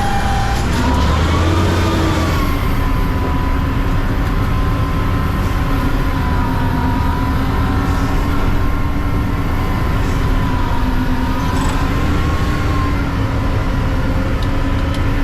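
Mack CNG front-load recycling truck running, a low steady rumble with a whine that drifts slightly up and down in pitch.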